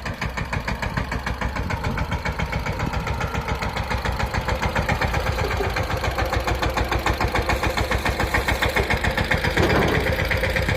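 Mahindra Yuvraj 215 tractor's single-cylinder diesel engine running with a fast, even chugging beat, growing a little louder in the second half.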